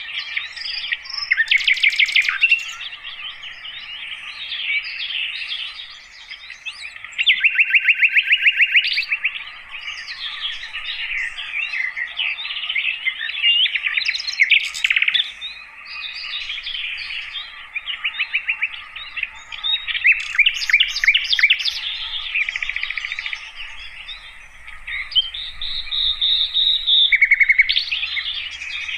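Sikatan londo flycatcher singing a continuous, varied run of chirps and warbled phrases, broken by loud rapid trills about two seconds in, around seven to nine seconds, around twenty seconds and near the end.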